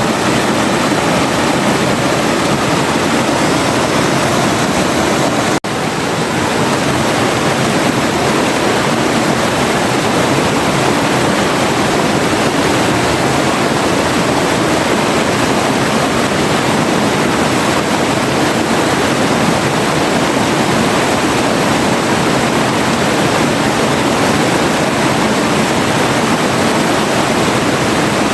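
River water flowing and rushing steadily in a dense, even rush. About five and a half seconds in the sound drops out for an instant and swells back up within half a second.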